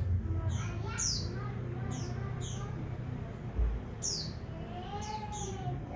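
Common iora (cipow) singing: a string of short, high notes, each sliding downward, repeated at irregular intervals about half a second to a second apart.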